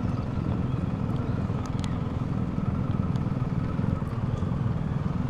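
BMW R1250GS boxer-twin motorcycle under way: a steady engine drone with wind and road noise, heard from a mic inside the rider's helmet.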